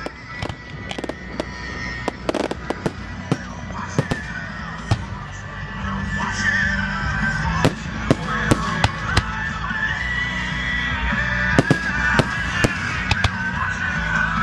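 Fireworks display: many sharp cracks and bangs, denser and louder from about six seconds in, with whistling shells wavering above them.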